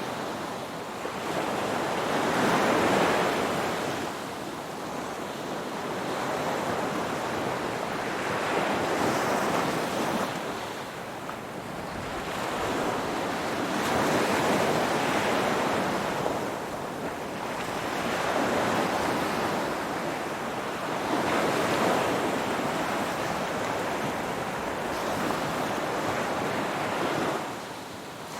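Ocean waves washing on the shore: a wide, hissing surf sound that swells and recedes in slow surges about every five to six seconds.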